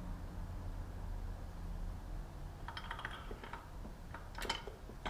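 Light clicks and taps of small parts being handled, the oil filter canister lid and its fittings, in two short clusters about three seconds in and near the end, over a low steady hum.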